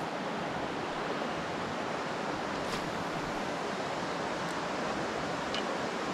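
Steady rush of flowing river water, with a few faint high ticks.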